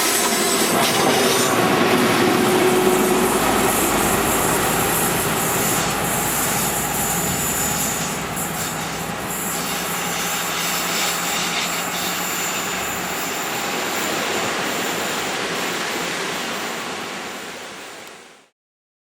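A train running past on the rails, with wheel squeal and a clickety-clack of wheels over rail joints. The sound fades and cuts off near the end.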